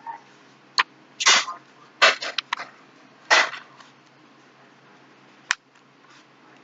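Book pages being flipped and handled: a handful of quick paper swishes and rustles, with a single sharp click about five and a half seconds in.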